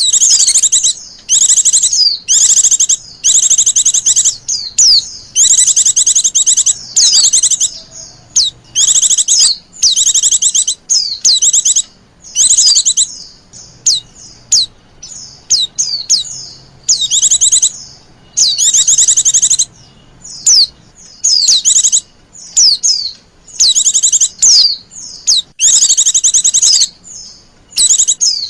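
Female white-eye (pleci) giving short, high, fast-trilled calls over and over with brief gaps between them: the coaxing female calls used to lure other white-eyes.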